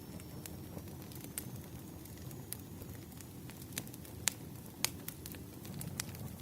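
Wood fire crackling: irregular sharp pops and snaps over a low steady rumble, with the loudest pops a little past four seconds in and near five seconds.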